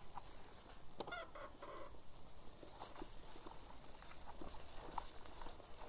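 A chicken clucking briefly, a quick run of short calls about a second in, with scattered faint clicks and knocks around it.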